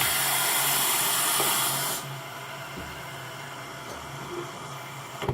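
Water running from a tap, a steady rushing hiss that is loud for about two seconds and then drops to a quieter, even flow.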